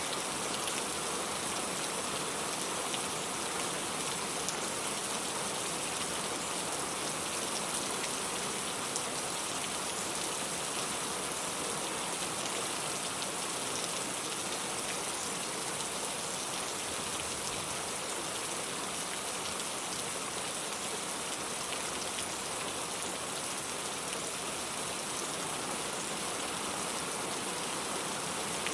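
Steady rain falling: a dense, even hiss that never changes, with faint scattered drop ticks.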